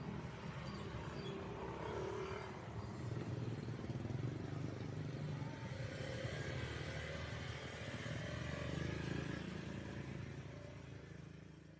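Road traffic: motorcycle and car engines running and passing, a steady mixed engine drone that fades near the end.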